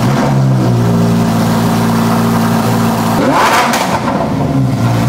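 Lamborghini Huracán STO's V10 engine, just started, idling high and steady. About three seconds in it revs once with a quick blip, rising and then dropping back, and it starts to rise again near the end.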